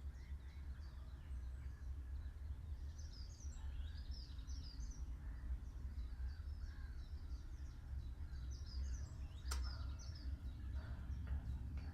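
Small birds chirping and singing repeatedly over a steady low rumble, with one sharp click about three-quarters of the way through.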